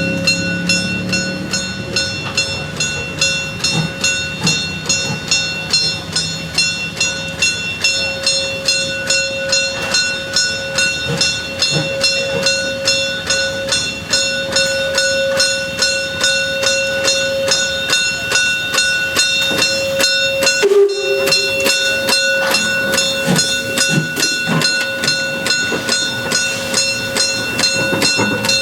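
Steam locomotive SJ 1916 working along the line: its exhaust beats come evenly, a few a second, over a steady hiss, with steady tones running through.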